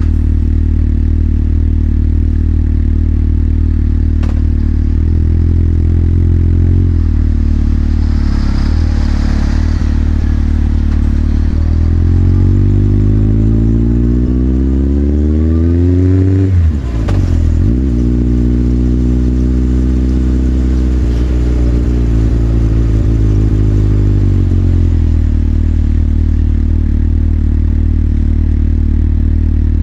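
Motorcycle engine idling steadily, then rising in revs as the bike accelerates. A quick dip in revs marks a gear change, the engine holds at a steady speed, and then it falls back to idle near the end.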